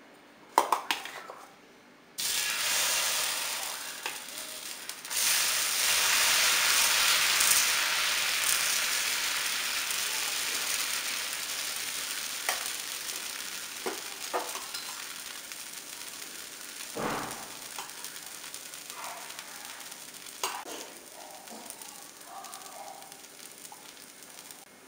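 Dosa batter sizzling on a hot cast-iron tawa as the dosa cooks. The sizzle starts suddenly about two seconds in, gets louder a few seconds later, then fades gradually, with a few light knocks.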